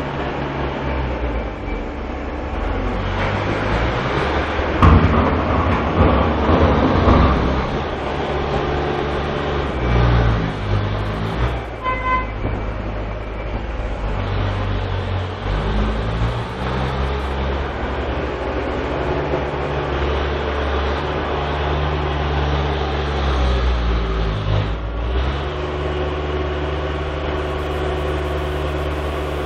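Diesel engines of telehandlers and a truck running, revving up and down as the machines work. A brief beep sounds about twelve seconds in.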